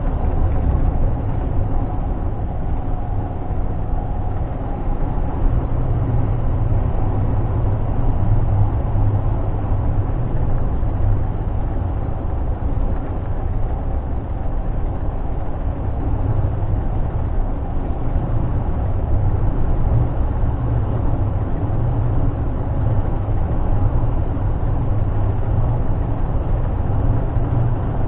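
Scania G460 truck's 13-litre straight-six diesel running steadily under way, heard from inside the cab as a low drone with road noise.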